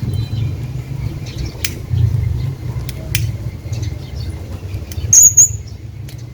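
Hanging parrot giving two short, shrill, high-pitched calls about five seconds in, over a steady low rumble.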